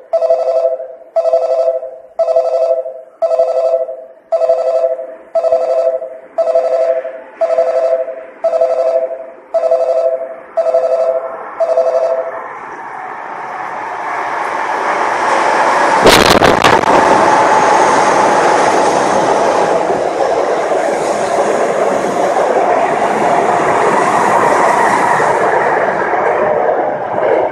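Station platform approach bell ringing in a steady two-tone pulse about once a second, stopping about twelve seconds in. A train then comes along the platform behind the screen doors, its running noise growing loud and steady, with one sharp knock about sixteen seconds in.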